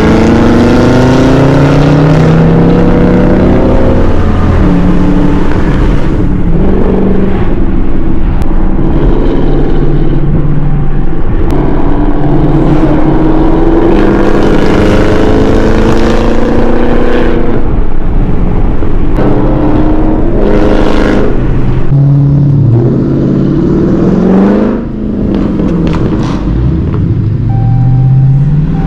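Loud V8 muscle-car engine running hard, accelerating and revving, its pitch climbing and dropping again several times, with a long climb in the middle and quicker blips of revs near the end.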